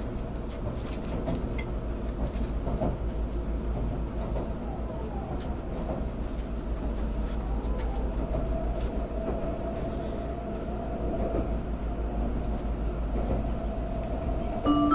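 Tokaido Shinkansen car running, heard from inside the cabin: a steady low rumble with a steady whine and occasional light ticks. An onboard chime melody starts right at the very end.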